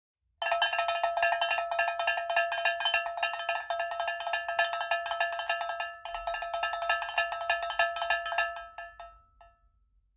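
Rapid, dense metallic percussion with steady ringing tones, like a cowbell or bells struck many times a second. It starts abruptly, breaks off briefly about two-thirds of the way in, then fades out near the end.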